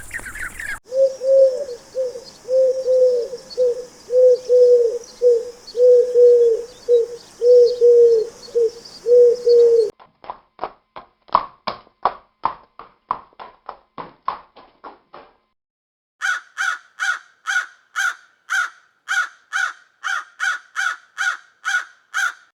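Bird calls in three edited segments: a low hooting coo repeated over and over, then a quick run of short sharp calls, then after a brief gap a steady series of calls at about two a second.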